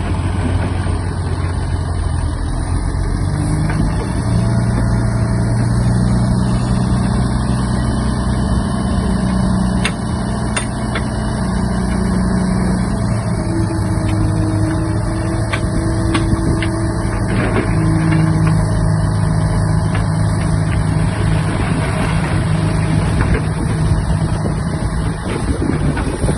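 Bulldozer's diesel engine running steadily, its low pitch shifting slightly a few times.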